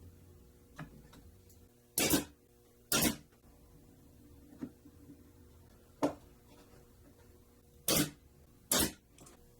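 Short sharp knocks, a pair about two seconds in, one about six seconds in and another pair near the end, with a few faint clicks between, typical of wood or tools being set down or tapped in a workshop.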